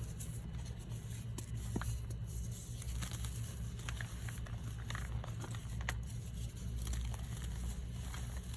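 Reformed blocks of gym chalk and baby powder being crushed and crumbled: scattered, irregular crisp crunches and crackles over a steady low hum.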